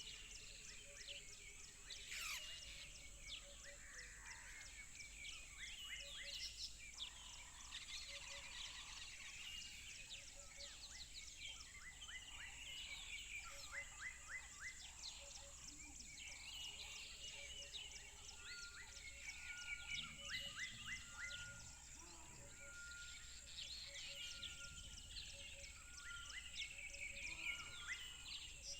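A chorus of several songbirds singing and chirping, with many quick high chirps and trills overlapping, among them a repeated short whistled note.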